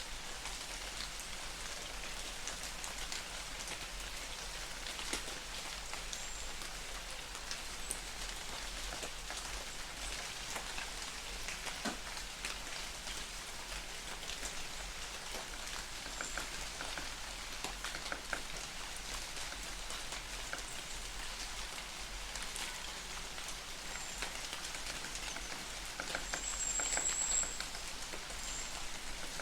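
Light rain falling in a forest: a steady hiss with scattered individual drops ticking. A brief high-pitched sound stands out about 27 seconds in.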